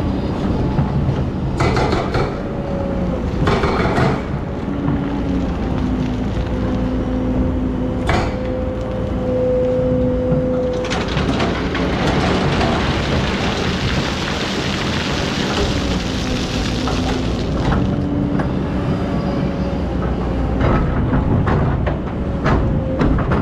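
Hydraulic excavator running under load, its diesel engine and hydraulic whine shifting in pitch as it works, with scattered metallic clanks. A rushing hiss rises for several seconds in the middle.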